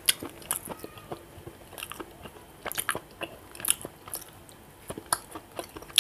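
Mouth sounds of chewing: irregular wet clicks and smacks as a man eats the last handfuls of rice and curry with his fingers.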